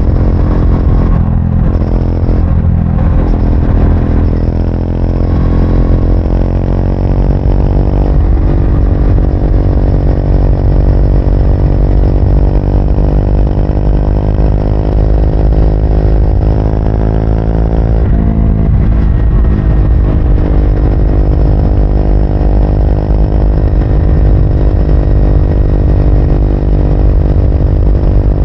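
Triumph Speed 400's single-cylinder engine running under way, its pitch climbing as it accelerates. The pitch breaks about eight seconds in, holds fairly steady, then changes and climbs again after about eighteen seconds.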